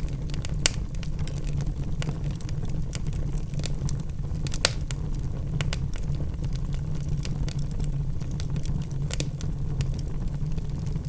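Wood logs burning in a fireplace: a steady low rumble of flame with constant small crackles, and a few sharper pops, the loudest about a second in and about halfway through.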